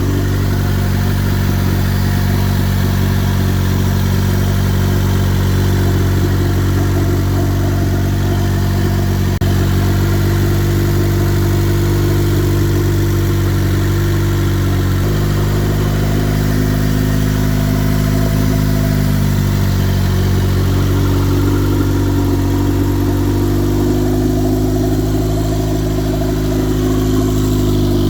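Turbocharged Honda Civic engine running steadily. Its pitch shifts slightly about halfway through and rises gently near the end.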